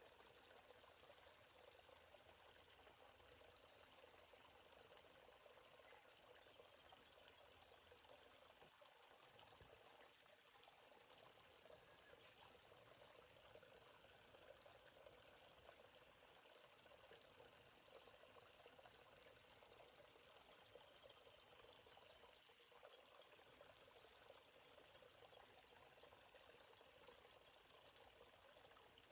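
Steady, high-pitched chorus of insects, faint, over a soft trickle of running stream water.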